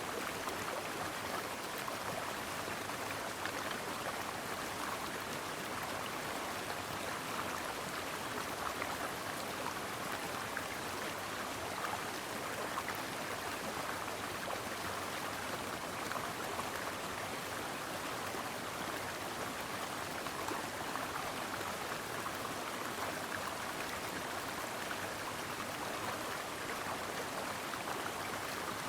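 Creek water flowing and babbling over rocks, a steady rushing burble.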